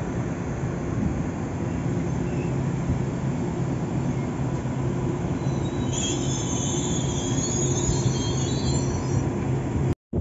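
Trenitalia Frecciarossa high-speed train rolling along a station platform with a steady low running hum. Its wheels squeal high-pitched from about six seconds in until about nine seconds, and the sound cuts off suddenly near the end.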